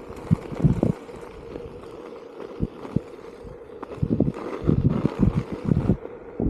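Onewheel GT electric board riding, its hub motor giving a steady hum, with irregular low thumps of wind buffeting the camera microphone, heaviest in the last couple of seconds.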